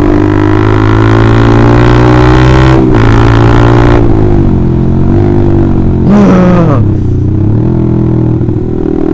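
Honda CBR150R single-cylinder engine running through a loud aftermarket racing exhaust, its pitch easing down and picking back up as the throttle changes, with a brief break about three seconds in and a quick rev rise and fall about six seconds in.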